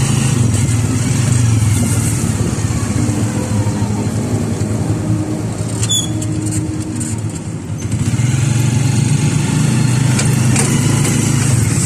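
Motorcycle engine of a motorised tricycle running, heard from the sidecar. The engine sound eases off for a couple of seconds around the middle and comes back up about eight seconds in.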